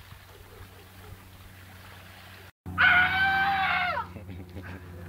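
A loud, high-pitched cry lasting about a second, starting about three seconds in, that slides down in pitch as it ends.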